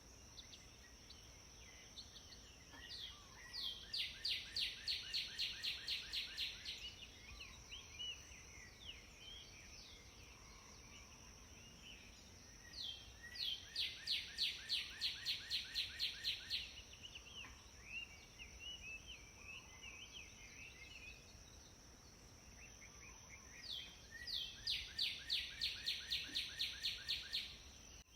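A small songbird singing a fast, even trill of about five notes a second, each phrase lasting about three seconds and repeated three times, with softer scattered chirps between phrases. A steady high hiss runs underneath.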